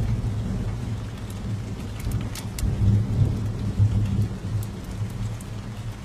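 A low thunder rumble that rolls on and dies away over steady rain. Scattered sharp crackles of a fire run through it.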